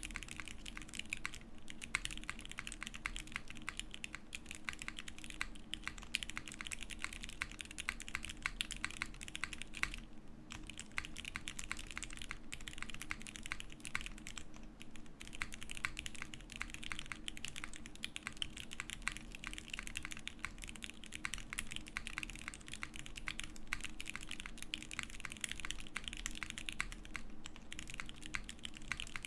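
Continuous fast typing on a gasket-mounted custom mechanical keyboard with lubed Cherry MX Brown switches, a full titanium plate and GMK keycaps: crisp, clacky keystrokes in quick succession, with short pauses near 10 and 15 seconds in.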